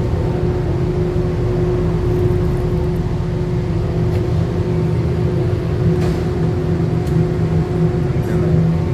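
Steady mechanical hum of a running motor, with a constant low tone.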